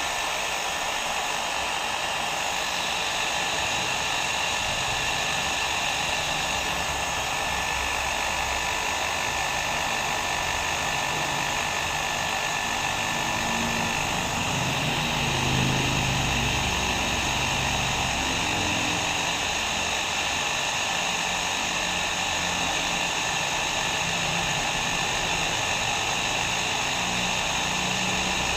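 Hair dryer running steadily: a constant rush of blown air with a faint steady motor whine, swelling slightly about halfway through.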